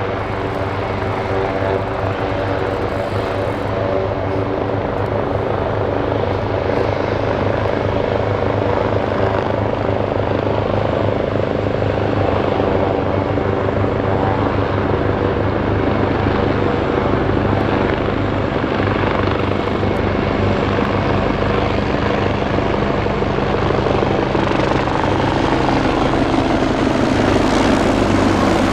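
Bell 430 helicopter running close by: the turbine whine and the rapid chop of the main rotor blades, steady and slowly growing louder.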